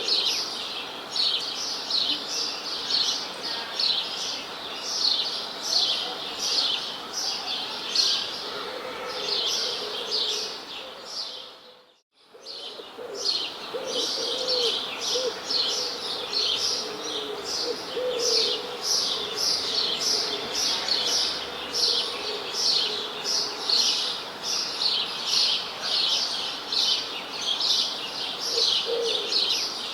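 Birds chirping, with short high chirps repeated about two a second and a lower call now and then. The sound fades out briefly and comes back about twelve seconds in.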